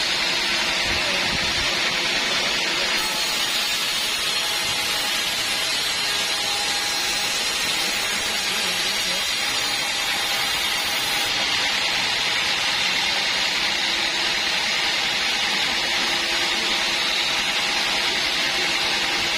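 Band sawmill running: a steady, even mechanical noise with a high hissing edge that holds unchanged throughout.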